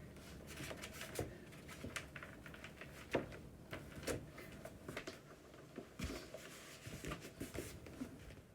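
Scattered light clicks, taps and rustles of handling, with a sharper knock about three seconds in.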